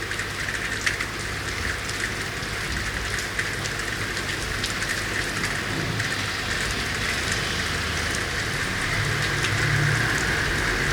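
Steady rain falling on city surfaces, a continuous hiss with scattered individual drops ticking. A low rumble builds near the end.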